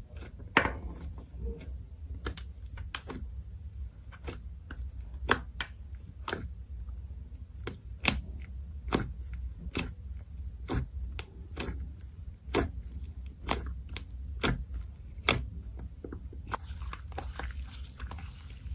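Slime being handled, pressed and stretched, giving sharp sticky clicks and pops about once or twice a second over a low steady hum.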